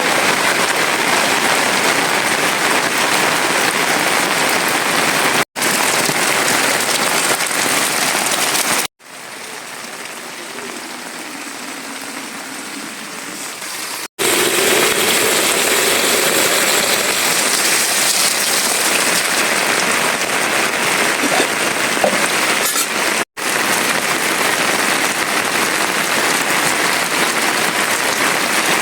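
Steady downpour of rain, an even hiss across the whole range, cut into several clips with brief drops to silence between them. A much quieter stretch of rain runs from about 9 to 14 seconds in.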